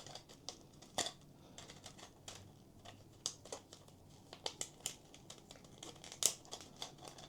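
Scattered light clicks and taps of 3D-printed plastic notepad parts being handled as a hair elastic is fitted into the back cover's slot, with a sharper click about a second in and another just past six seconds.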